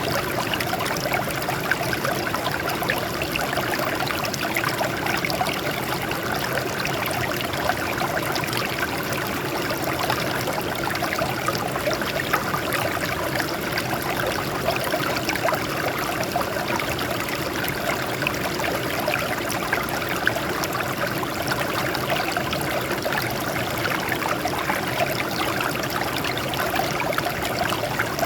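Water streaming and trickling over rocks, a steady babbling flow with constant small splashes.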